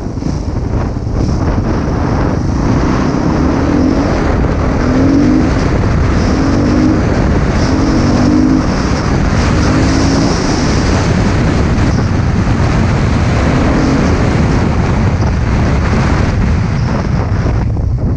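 Husqvarna TC 250 motocross bike engine running hard while being ridden, with short rising revs about once a second for a stretch, under heavy wind noise on the microphone.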